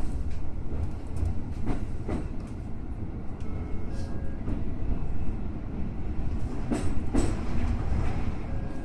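Electric commuter train running on the Musashino Line, a steady low rumble of wheels on rail, with two pairs of clacks as wheels pass over rail joints.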